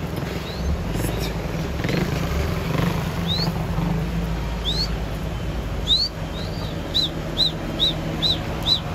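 A small bird chirping: three separate rising chirps, then a quick run of five short notes near the end. Under it runs the steady low hum of a vehicle engine creeping along.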